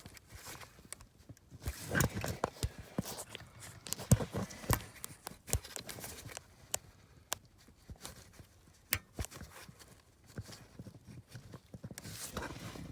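Irregular clicks, knocks and rattles of hand tools and plastic trim or actuator parts being handled under a car's dashboard, busiest about two and four seconds in.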